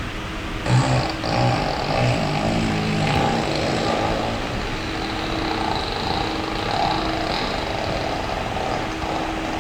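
A machine running steadily with a constant hum, joined about a second in by a louder whirring noise that carries on throughout.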